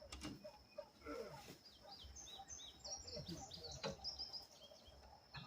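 A songbird singing a run of short, quick, falling high notes, faint in the background, with scattered faint knocks.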